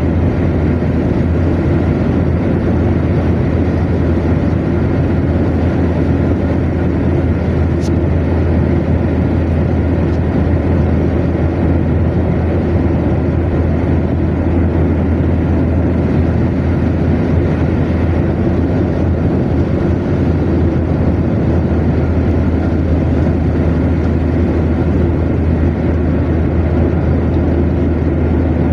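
Car driving at steady motorway speed: constant tyre and road noise over a low engine drone.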